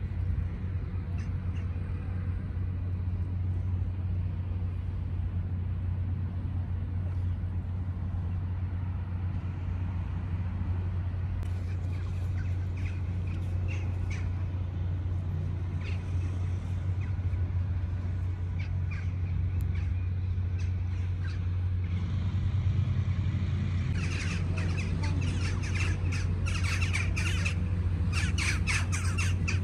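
A steady low hum runs throughout. Birds squawk over it: a few scattered calls in the first half, then many rapid repeated squawks in the last few seconds.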